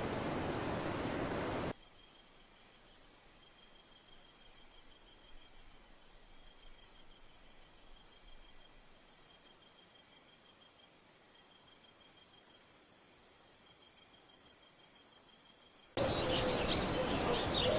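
Faint insects chirring in a rainforest, their high pulsed trill growing louder and more rhythmic. A steady rushing noise comes before it, and it cuts to sweeping bird calls near the end.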